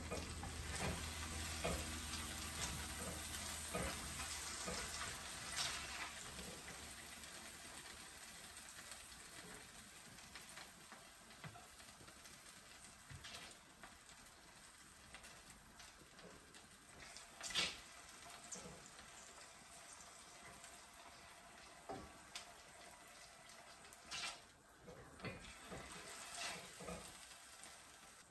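Chicken and mushrooms sizzling in a skillet while a wooden spoon stirs them. The sizzle dies down over the first third. A few sharp knocks of the spoon against the pan come through, the loudest about two-thirds of the way in.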